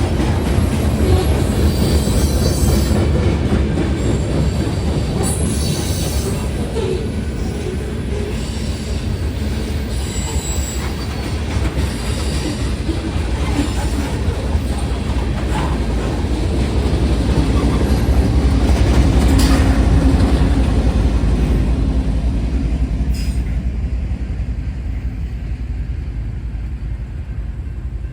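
Freight cars of a manifest freight train rolling past: a steady rumble of wheels on rail, with clicking and brief high wheel squeals. It grows louder about two-thirds of the way through, then fades toward the end.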